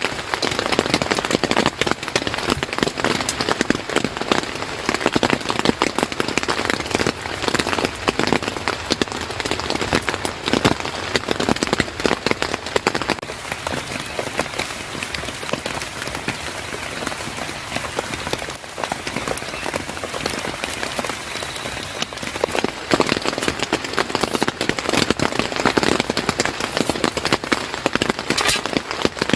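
Steady heavy rain, with a dense crackle of individual drops striking a nearby surface.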